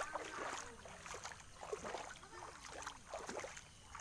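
Floodwater splashing and sloshing in irregular bursts, with a faint voice in the background about two seconds in.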